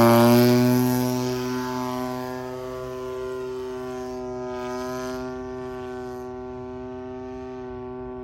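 Engine of a 20cc radio-controlled Supermarine Seafire model plane running at a steady high pitch, fading as the plane flies away.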